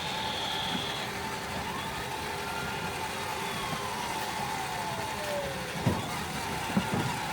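Electric ride-on toy fire truck driving, its motor giving a steady whine, with a few slow falling tones over it.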